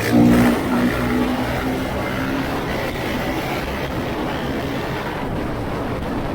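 Dirt bike engine revving, its pitch rising and falling for about the first second, then running steadily.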